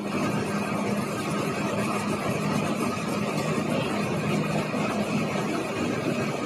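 A bus engine running steadily, with the wide rumble of a vehicle on the move.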